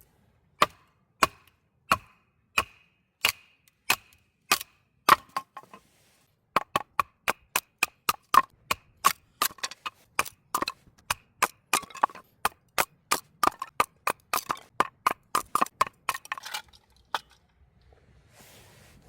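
Repeated sharp wooden chopping knocks: evenly spaced at first, about one every half second or so, then quicker at about three a second, stopping a couple of seconds before the end.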